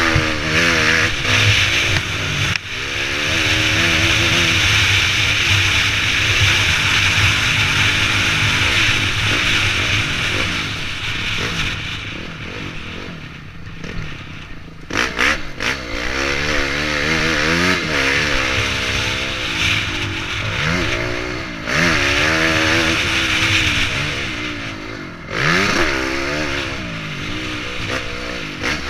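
Honda CRF250X's single-cylinder four-stroke engine revving up and down as the enduro bike is ridden around a motocross track, heard from on board. The engine eases off briefly about halfway through and again near the end before opening back up.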